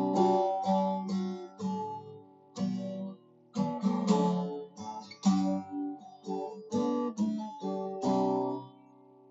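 Yamaha F-310P steel-string acoustic guitar, fitted with Ernie Ball strings, being strummed: a run of chords with short pauses between them, ending with a final chord that rings out and fades near the end.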